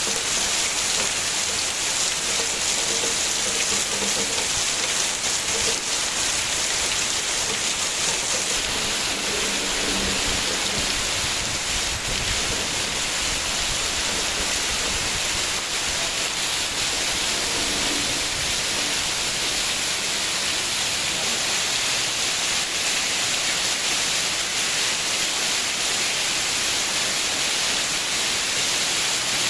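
Heavy tropical rain pouring down steadily, a dense unbroken hiss.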